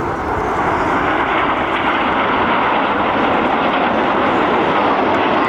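BAE Hawk T1 jets flying past in formation: a steady jet roar that swells slightly at the start, with a faint whine dropping in pitch near the end as they pass.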